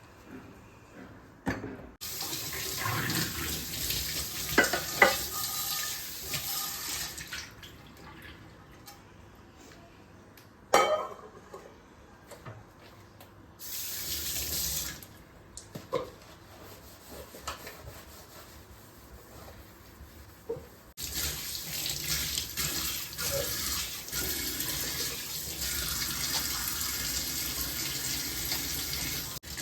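Water running from a tap in three spells, the longest near the end, with a few short knocks between them.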